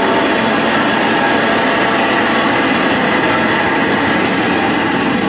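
Suitcase wheels rolling over a paved path, a steady rough rumble.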